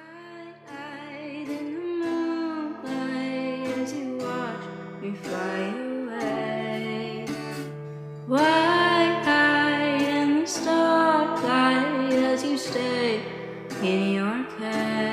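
Song: a woman singing a melody over guitar accompaniment, louder from about eight seconds in.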